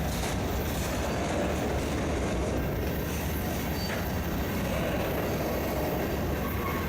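Freight train cars rolling past on the rails, a steady rumble with no break.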